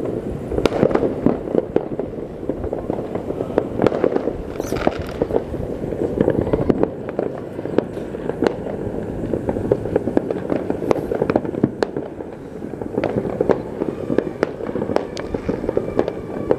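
Many fireworks and firecrackers going off at once across a city: a constant dense crackle of pops and sharp bangs that never lets up.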